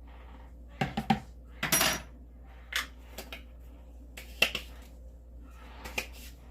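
Scattered clinks and taps of small utensils against containers, about half a dozen sharp knocks spread through the few seconds, with a brief scraping rustle about two seconds in.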